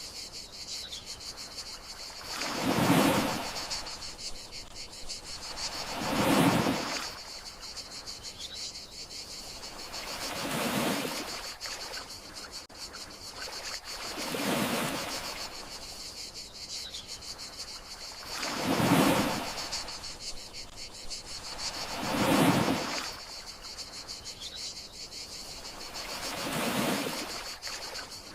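Gentle sea waves washing onto the shore, seven soft swells that rise and fade about every four seconds, over a steady high chirring of crickets.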